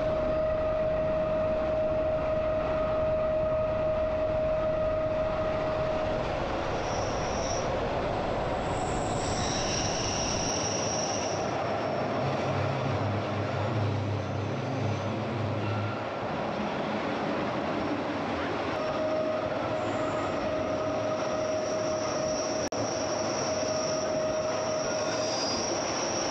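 Glacier Express train running on its rails with a continuous rumble of wheels, and drawn-out wheel squeal at a steady pitch. The squeal is held for the first several seconds and again from about two-thirds of the way in, with higher, shorter squeals in between.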